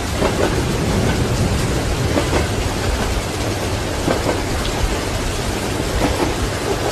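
Steady heavy rain with a low rumble of thunder, over the faint clack of train wheels on the rails.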